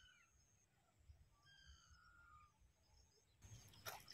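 Faint bird calls in near silence: a few short whistled notes, each gliding downward in pitch. A soft rustling noise starts near the end.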